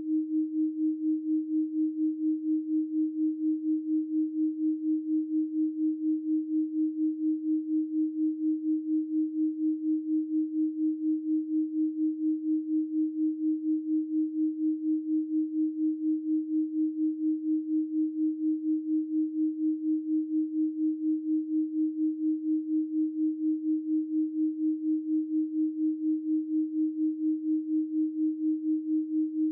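A 312 Hz pure sine tone held steadily at one pitch, pulsing evenly and quickly in loudness.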